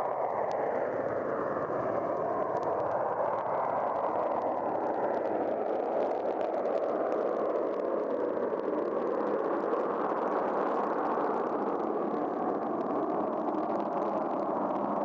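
McDonnell Douglas DC-9 jet airliner taking off, its JT8D turbofans giving a steady jet noise with a whine that slowly falls in pitch. Vinyl surface crackle runs through it.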